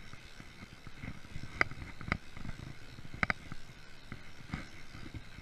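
Freeride mountain bike rolling over a forest trail: a low rumble from the tyres and ground with a few sharp metallic clicks and rattles from the bike, the last a quick double about three seconds in.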